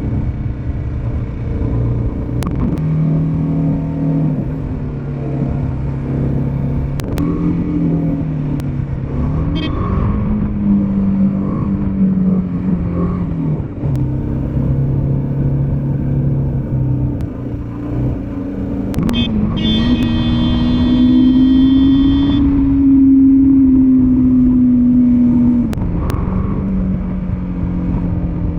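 Motorcycle engine running on the move, its pitch stepping up and down as it changes gear and speed, climbing to its highest and loudest about two-thirds of the way in. A high, steady ringing tone sounds over it for about three seconds at that point, and a few sharp clicks come through.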